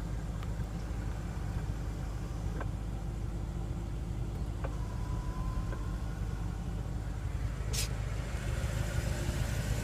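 Steady low rumble of a car engine idling, with a few faint clicks and one sharper click about three-quarters of the way through.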